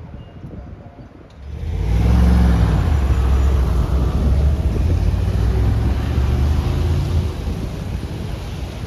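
A motor vehicle driving past close by: its engine and tyre noise swell suddenly about a second and a half in, stay loud for several seconds, and fade toward the end.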